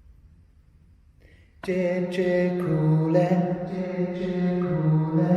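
Faint quiet, then about a second and a half in a voice starts singing a wordless, chant-like song of held notes that shift pitch in a repeated tune: the red bird's song in the tale, sung by the storyteller.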